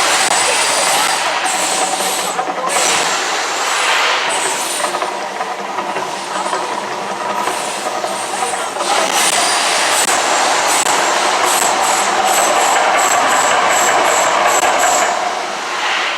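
Loud, steady roaring rumble of the Mirage volcano's eruption show, dipping a little in the middle, with a run of quick pulses, about three a second, near the end.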